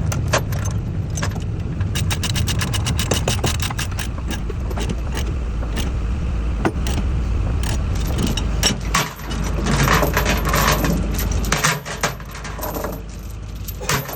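Steel load-securing chains rattling and clinking as they are handled, in quick runs of clinks, over a steady low engine rumble.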